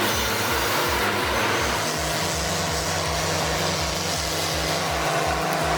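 Heavy machinery running: a loud, steady engine noise with a low, even pulsing about four times a second, and a steady hum joining about two seconds in.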